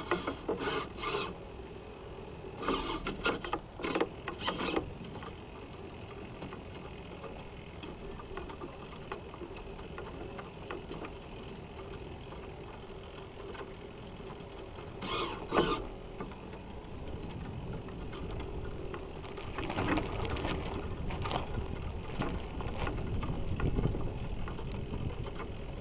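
Sound picked up aboard a North Wind 360 radio-controlled sailboat: a steady faint hum broken by short whirring bursts from the boat's servos, a few near the start and one about halfway. Water rushes along the hull, growing louder over the last several seconds.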